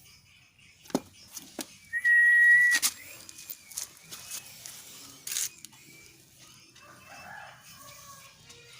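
A single high, steady whistled note held for just under a second about two seconds in, with a few sharp clicks before and after it.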